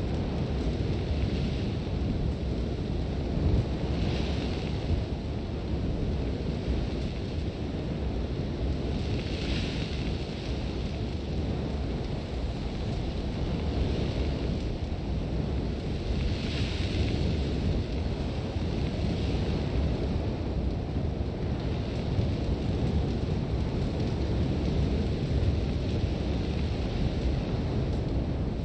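Sandstorm wind blowing against a tent: a deep, steady wind rumble, with a gust every few seconds bringing a swell of harsh, hissing sand.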